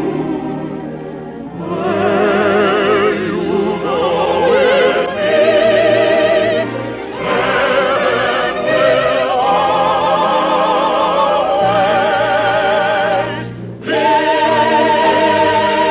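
Operatic singing with strong vibrato over an orchestra, sung in long phrases with a brief break near the end, in the narrow, muffled sound of an early-1950s radio broadcast recording.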